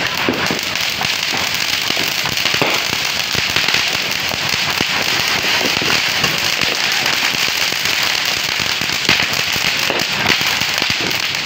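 Ground firework fountains spraying sparks: a continuous loud hissing crackle, peppered with sharp pops, two of them louder about nine and ten seconds in.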